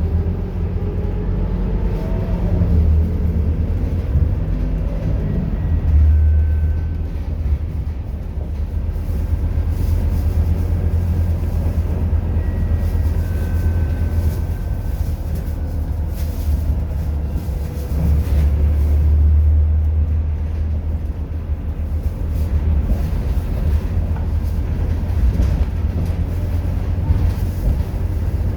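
Scania K230UB city bus's diesel engine running, a deep low drone. It has a rising whine in the first few seconds as it pulls away, and swells louder twice more, about a third of the way in and again past the middle.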